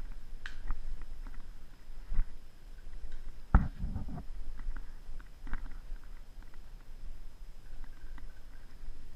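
Scattered rustling and crackling, like movement through dry leaves and twigs, over a low rumble of wind and handling on the camera, with one sharp knock about three and a half seconds in.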